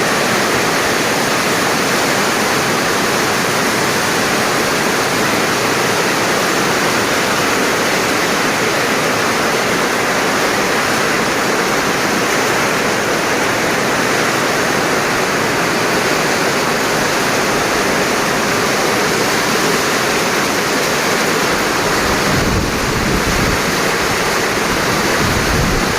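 Heavy rain falling, a loud steady hiss. A low rumble joins it near the end.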